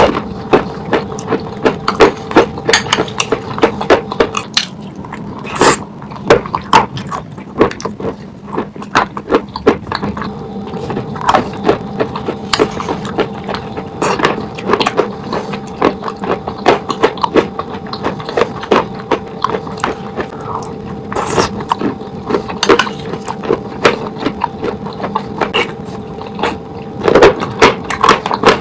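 Close-up chewing of chunks of chalk soaked in a wet paste: a dense run of sharp wet crunches and crackles, several a second, over a steady faint hum.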